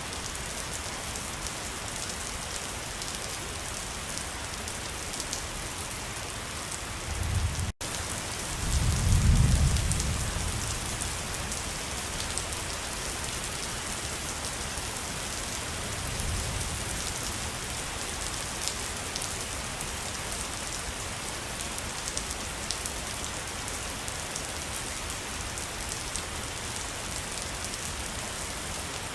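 Steady rushing hiss of a waterfall. About eight seconds in, a deep rumble swells and fades over a few seconds, with a brief sudden cut in the sound just before it; a weaker rumble follows around sixteen seconds.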